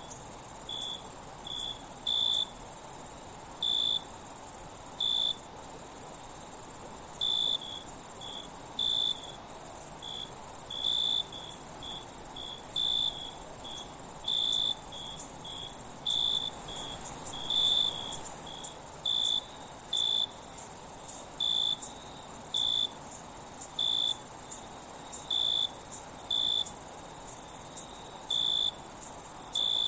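Night insect chorus of crickets: a steady, very high-pitched trill with a lower cricket's short chirps repeating about one to two times a second.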